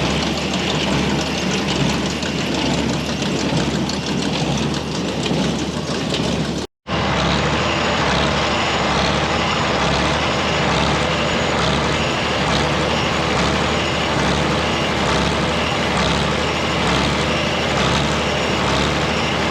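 Tractor engine running under load while pulling a New Holland small square baler that is working. The noise is steady, and it cuts out briefly about seven seconds in.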